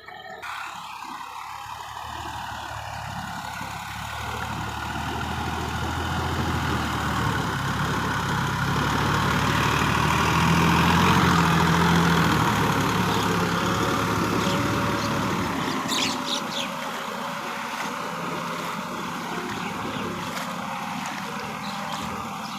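Sonalika tractor's diesel engine running under way. It grows steadily louder to a peak about halfway through, then fades somewhat, as the tractor draws near and moves off again.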